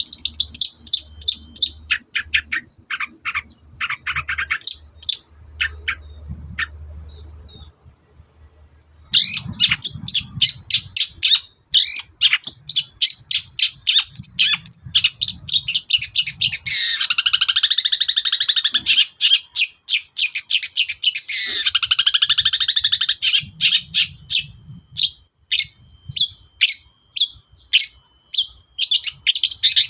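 Long-tailed shrike (cendet) singing a fast, varied song of sharp chattering notes, rapid trills and mimicked calls of other birds. The song breaks off briefly about a quarter of the way in and then resumes.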